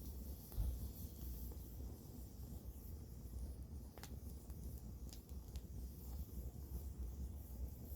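Campfire burning with a low, steady rumble and a few sharp crackles of burning wood: one about four seconds in and two more a second or so later.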